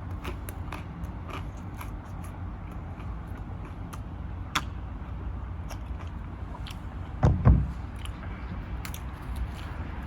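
A person chewing and biting pizza, with scattered wet mouth clicks over a steady low rumble. There is a louder low double thump about seven seconds in.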